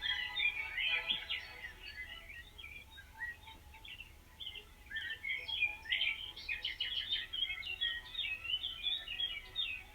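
Birds chirping and singing, many quick overlapping chirps and short trills, busiest about six to seven seconds in.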